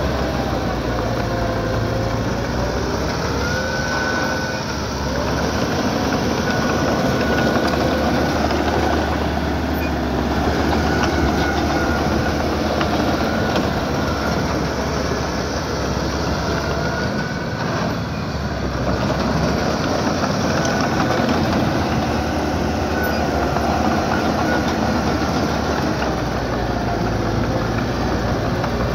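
Small crawler bulldozer at work: its diesel engine running steadily under load while the steel tracks clatter, with short high squeals that rise and fall every few seconds.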